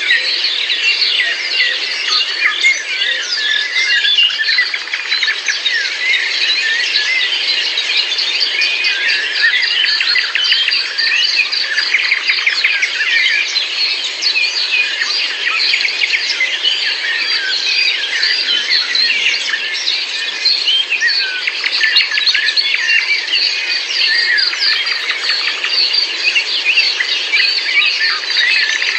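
Many birds singing at once in a dense chorus, a continuous tangle of overlapping chirps, whistles and trills with no pause.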